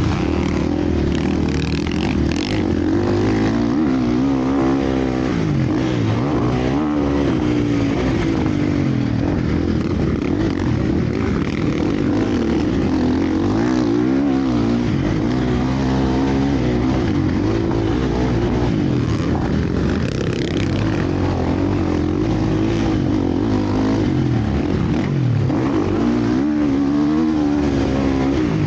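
Several motocross bikes racing, their engines revving up and down as the riders work the throttle and shift, the pitches of different bikes overlapping and rising and falling continuously.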